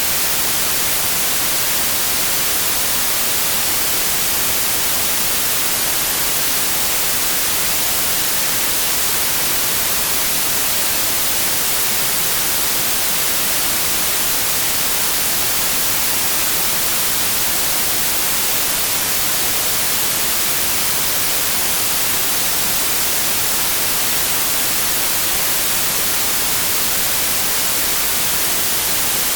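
Synthetic white noise: a steady, even hiss, brightest in the highs, with no change at all.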